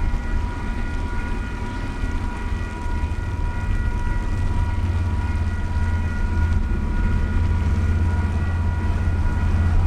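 Diesel-hauled freight train passing, the locomotive's low engine rumble growing louder about halfway through, with a steady high ringing tone running underneath.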